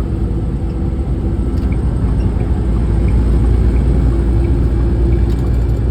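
Truck cab interior noise while driving: a steady low engine and road rumble with a constant engine hum, swelling slightly about halfway through.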